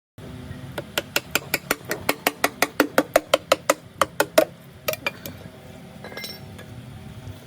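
A quick, even run of sharp metal-on-metal strikes, about five a second, growing louder and stopping about four and a half seconds in, followed by two or three more, over a steady low workshop hum.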